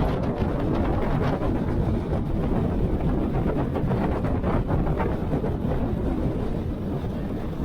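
Motorcycle riding noise: wind rushing over the microphone mixed with engine and road noise, steady throughout.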